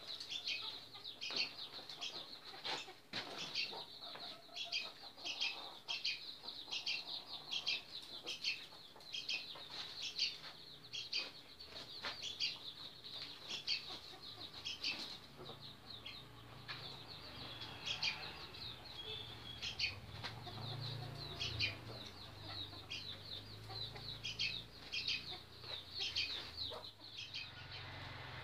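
A bird chirping over and over in short, high calls, often in pairs, with scattered clicks and rustles from the birds being handled.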